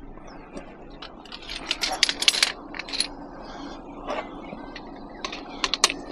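Pieces of scrap metal clinking and clattering as they are handled and dropped, in a burst of sharp metallic clinks about two seconds in and another short run near the end.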